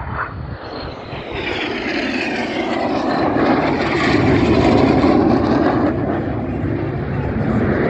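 Red Arrows BAE Hawk T1 jets flying past. The jet noise swells to its loudest about four to five seconds in, with a whine falling in pitch as they pass.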